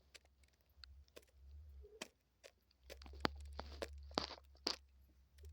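A pet dove pecking at seeds in a tub: irregular, sharp beak clicks and small crunches as it picks up and cracks the seeds.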